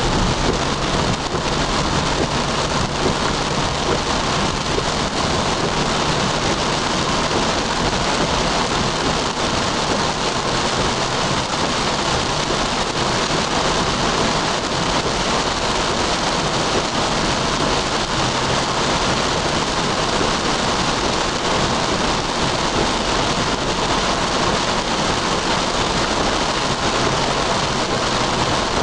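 Heavy rain beating on a car's roof and windshield, heard from inside the moving car as a steady, dense rush of noise.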